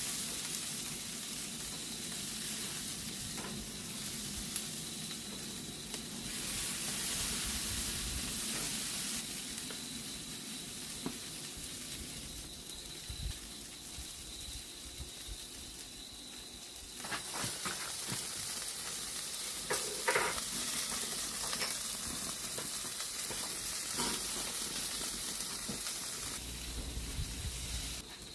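Food sizzling steadily on a hot grill, a constant frying hiss, with a few light knocks of utensils partway through.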